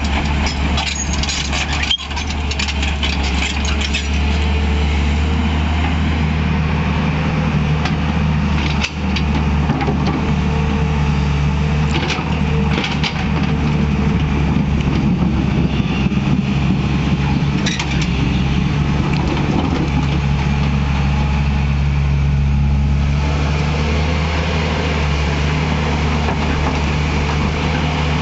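Tata Hitachi EX 200 LC Super hydraulic excavator's diesel engine running steadily with a deep drone, with a few short knocks.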